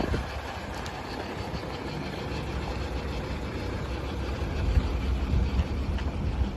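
Fuso Super Great dump truck's 8DC11 V8 diesel engine idling with a steady low rumble, growing a little louder about four to five seconds in.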